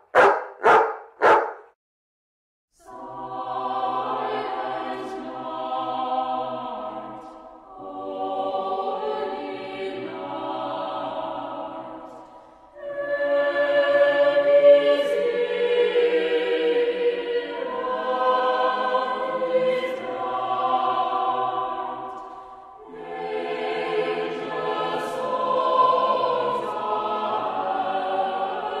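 A dog barks a few times in quick succession at the very start. Then a choir sings in long phrases of several seconds each, with short breaks between them.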